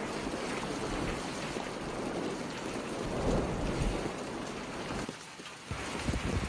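Hailstorm downpour: a dense, steady hiss of falling precipitation, which thins out briefly about five seconds in.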